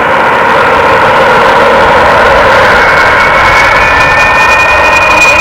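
Jet engines of a Boeing 777 freighter (GE90 turbofans) running at high power: a loud steady roar, with a high whine coming in about halfway through.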